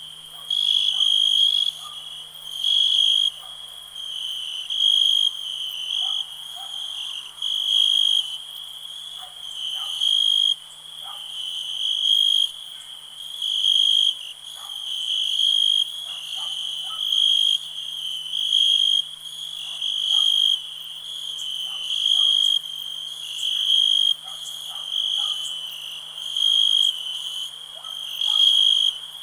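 Crickets chirping: a high, continuous trill that swells louder about every two seconds, with short lower calls scattered through it.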